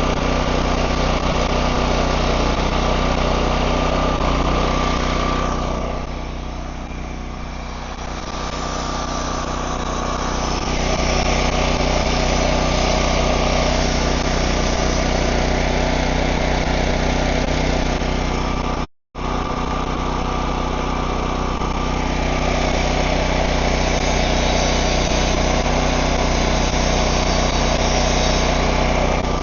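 MIG welder arc on 16-gauge steel, a dense steady crackle over the steady hum of an engine running. The crackle eases off for a few seconds early on and then comes back, and everything cuts out for an instant about two-thirds of the way through.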